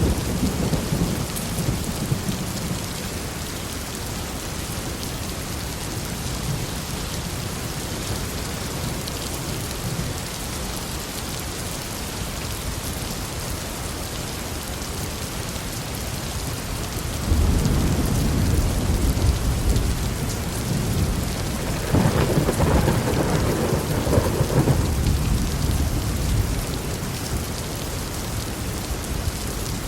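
Steady heavy rain falling, with thunder: a low rumble near the start, a sudden loud rolling peal a little past the middle, and a sharper crack and rumble a few seconds later that fades out toward the end.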